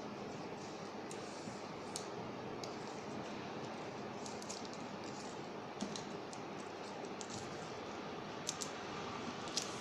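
Sheet of paper being handled, folded and creased by hand: scattered small crackles and clicks over a steady hiss.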